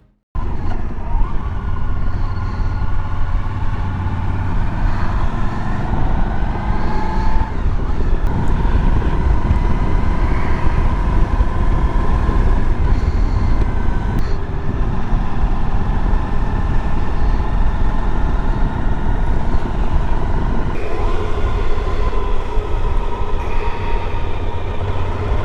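Suzuki V-Strom DL1000's V-twin engine on the move, its pitch rising and falling with throttle and gear changes, over a heavy wind rumble on the camera microphone.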